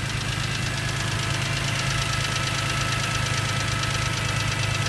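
A 2002 BMW M3's inline-six idling steadily from a cold start, with a fast, even ticking over the top. This is the cold-start tick the owner is documenting, which he says is quieter than usual this time.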